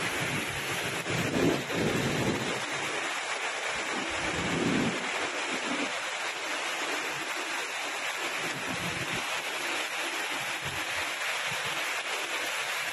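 Heavy rain pouring down steadily, with a few low rumbles about one and a half and four and a half seconds in.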